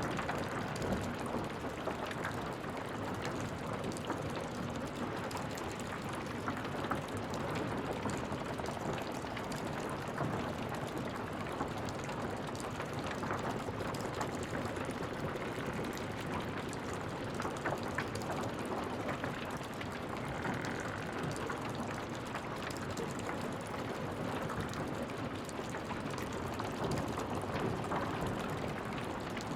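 Wood fire crackling: a dense, steady run of small pops and snaps over a soft rushing noise.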